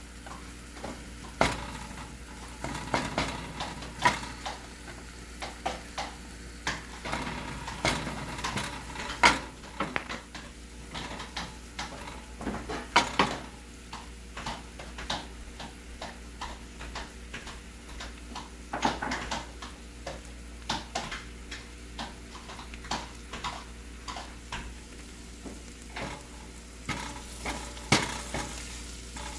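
Chopped onions and green onions sizzling as they sauté in a stainless steel frying pan, stirred with a wooden spoon that scrapes and knocks against the pan again and again.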